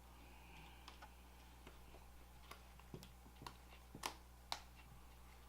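Faint, irregular small clicks and taps of a smartphone's plastic and metal parts being handled and fitted together during reassembly, the two loudest about four and four and a half seconds in.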